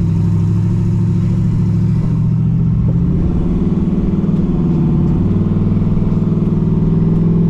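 Twin-turbo LS V8 in a Mustang running steadily as the car is driven, with a low, even exhaust note that shifts slightly about three seconds in.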